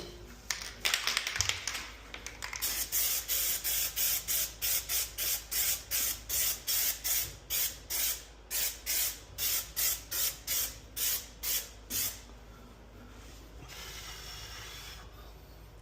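An aerosol spray-paint can: a rhythmic rattling of about three strokes a second, as when a can is shaken to mix the paint. A quieter steady spray hiss follows near the end as the second coat of paint goes onto the repaired porcelain tub.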